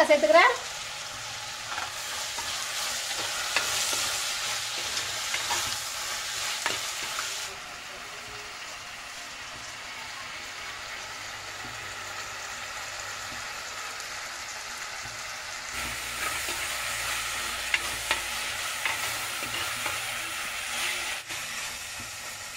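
Sliced onions, tomatoes and green chillies sizzling as they fry in hot oil in an earthenware clay pot, with scattered clicks and scrapes of a metal slotted spatula stirring them. The sizzle is quieter for several seconds in the middle.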